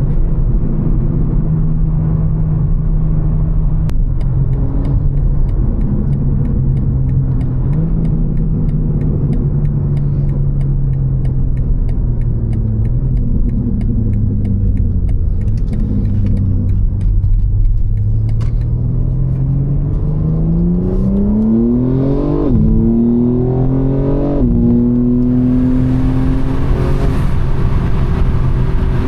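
BMW M4 Competition's twin-turbo inline-six running at a steady cruise. It then accelerates, its pitch rising and dropping sharply at two gear changes, and settles at higher revs.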